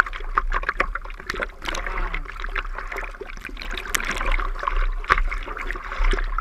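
Sea water splashing and sloshing close to the microphone in irregular bursts, like a surfer's arms stroking the water while paddling on a surfboard, over a steady low rumble.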